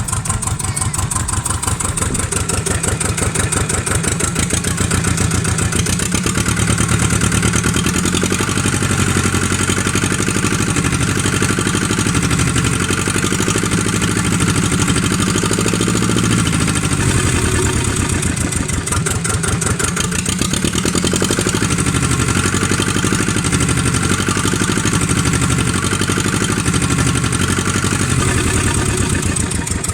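Volvo Penta AD21 four-cylinder marine diesel running steadily, its engine speed rising and falling several times.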